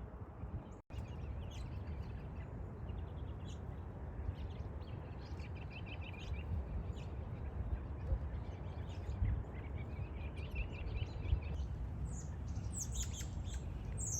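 Small birds chirping and calling, with quick runs of repeated notes and a burst of sharper, higher calls near the end, over a steady low rumble.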